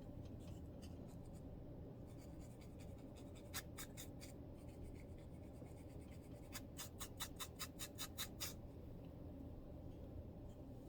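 Close-up scratching of dandruff on a scalp: a few quick scrapes about a third of the way in, then a fast run of about ten short strokes, roughly five a second, past the middle, over a low steady hum.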